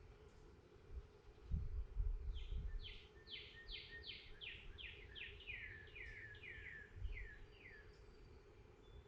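A songbird singing a run of about a dozen quick downslurred notes, each sliding from high to lower pitch, starting a couple of seconds in and ending near the end. Low dull thuds come just before the song begins, over a faint steady hum.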